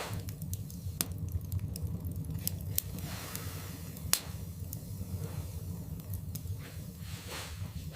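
Wood fire burning in a fireplace: a steady low rumble of flames with frequent sharp crackles and pops from the burning logs, the loudest pop about four seconds in, and a few soft hisses.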